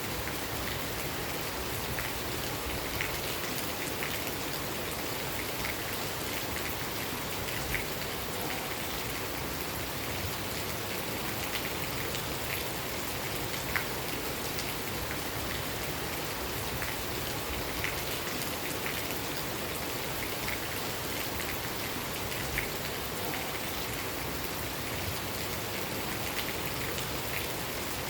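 Steady rain falling, an even hiss with separate louder drops ticking every second or so.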